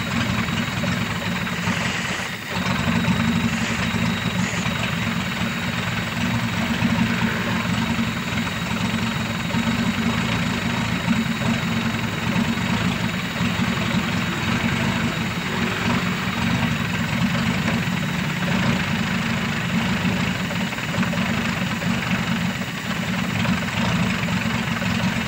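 Toyota 4K inline-four engine idling unevenly with a misfire. The cause is a long-tip spark plug in cylinder one whose gap has been closed up, possibly by the piston striking it.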